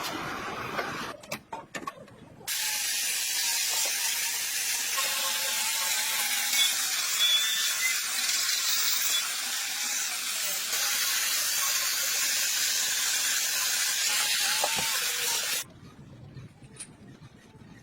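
A jet hissing steadily and loudly, switched on about two and a half seconds in and cut off abruptly near the end, with a few clicks just before it starts.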